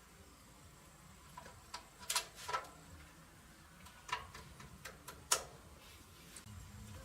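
Scattered light clicks and taps, several short sharp knocks a second or so apart, from small starter-motor parts and hand tools being handled and set down.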